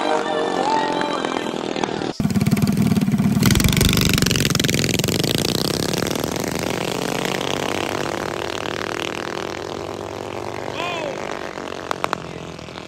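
Minibike engine running and revving, loudest just after a sudden cut about two seconds in, then fading steadily as the bike moves away.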